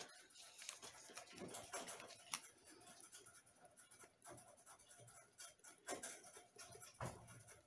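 Faint, scattered light clicks and taps of small plastic cups and tools being handled while resin and pearl pigment are portioned, over near silence.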